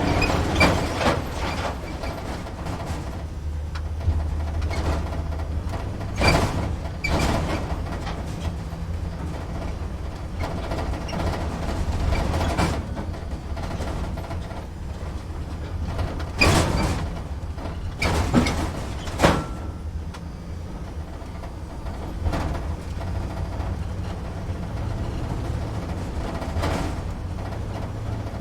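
Truck engine heard from inside the cab: a steady low rumble, with sharp rattles and knocks every few seconds, about ten in all.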